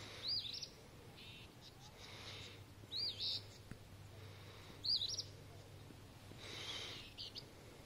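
A songbird giving a short, quick up-and-down call four times, about two seconds apart, in quiet morning air.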